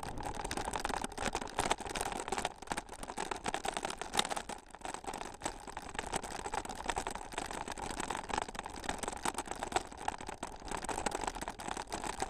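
Camera and bicycle rattling and jolting over a rough trail surface: a continuous run of dense, irregular clicks and knocks with tyre noise.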